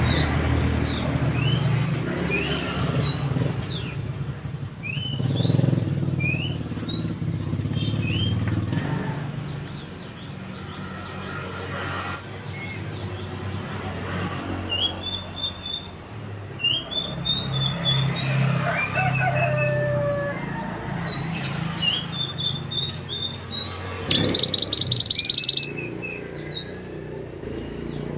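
A mantenan songbird calling, giving a string of short, rising chirps one after another. About 24 seconds in comes a loud burst of fast, buzzing notes lasting about a second and a half, over a low background rumble.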